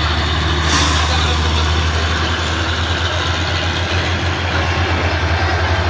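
Heavy diesel truck engine running at a steady low drone, with a short hiss about a second in.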